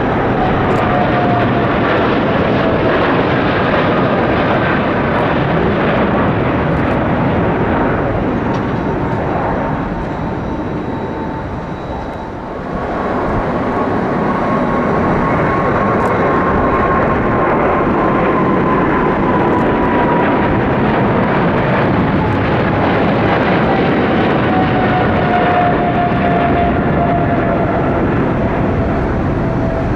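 Jet airliner engines running loud as one aircraft passes, its whine slowly falling in pitch; the sound dips about twelve seconds in and a second jet airliner follows, its whine also slowly falling as it goes by.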